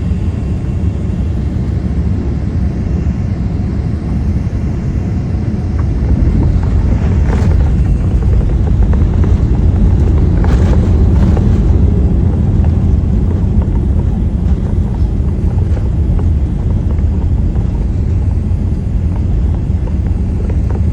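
Boeing 787 airliner's jet engines rumbling during its landing, loud and steady, growing louder about six seconds in.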